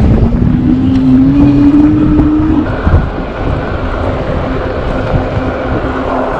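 Electric bike's 750 W, 48 V hub motor whining under way. Its pitch rises steadily for the first couple of seconds, then drops and holds a steady lower whine, over wind rumble on the microphone.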